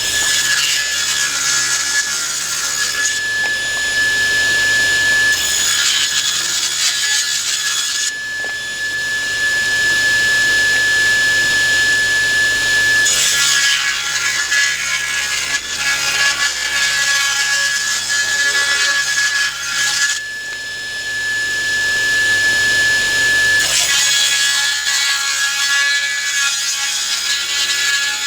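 Power saw resawing wooden boards into thin strips. The motor runs with a steady whine throughout, and a rasping cut comes in four times as board after board is fed through, with quieter free-running between cuts.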